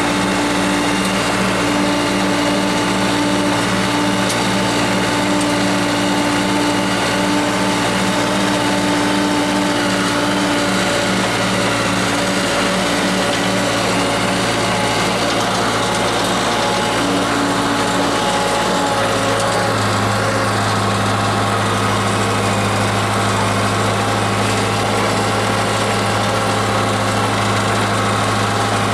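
Diesel engine of a Case 580K loader backhoe running steadily. Its note changes about two-thirds of the way through.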